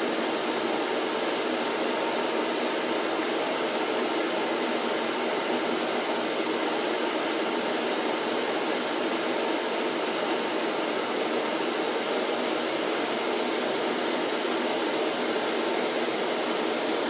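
Vacuum cleaner running steadily: an even, unchanging whir of motor and rushing air.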